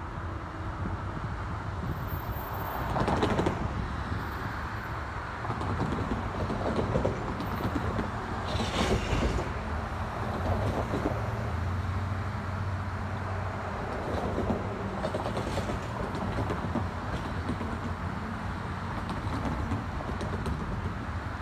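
Distant diesel train approaching on the tracks: a low, steady rumble under an even outdoor hiss. There are brief noisy swells about three and nine seconds in.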